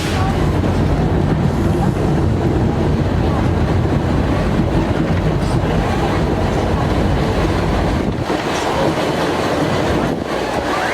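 Narrow-gauge park railway train running, its wheels rumbling along the track as heard from an open carriage. The low rumble eases about eight seconds in.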